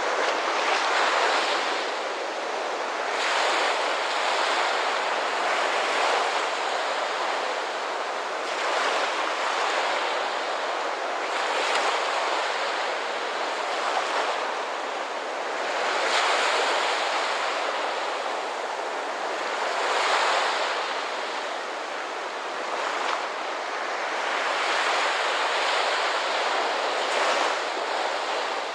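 Ocean surf washing onto a shore, each wave swelling and easing back every few seconds.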